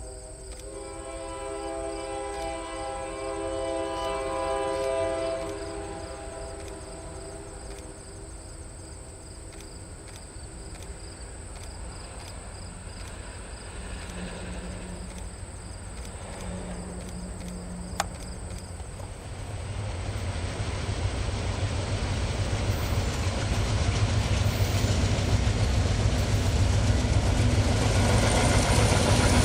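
Diesel locomotive horn sounding a multi-note chord for about five seconds. After it, the train's rumble builds steadily louder as it approaches.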